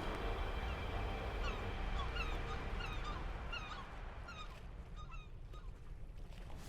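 A bird calling in a quick series of short calls, about two or three a second, each dropping in pitch, growing fainter toward the end, over a low steady rumble.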